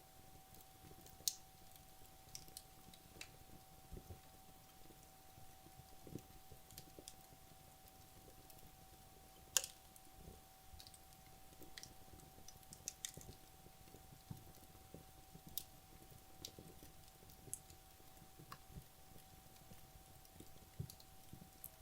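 Wood logs burning in a fireplace, giving faint, scattered crackles and pops at irregular intervals, with two sharper pops about a second in and near the middle.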